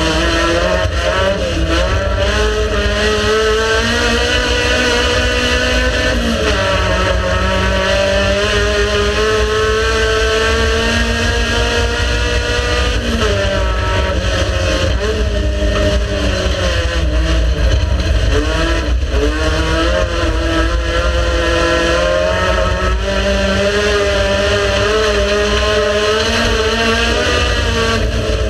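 Race car engine running hard, its pitch climbing and dropping several times with gear changes and throttle, over a heavy low rumble.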